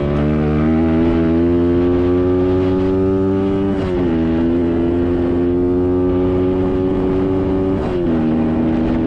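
SSR 150cc dirt bike's single-cylinder four-stroke engine pulling hard under full throttle, its pitch climbing steadily in each gear. The engine note drops sharply twice, about four and eight seconds in, as the rider shifts up.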